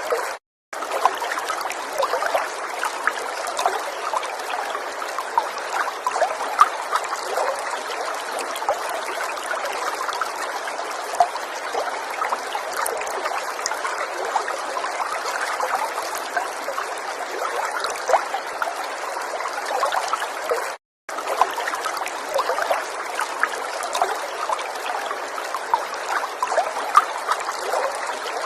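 River water trickling and babbling steadily, with many small splashes over a continuous rush. The sound cuts out to silence twice, for a moment each time: just after it begins and about two-thirds of the way through.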